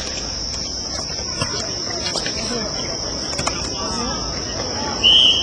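Steady high-pitched insect shrilling over faint distant voices and occasional sharp knocks, with one short, loud, high referee's whistle blast near the end.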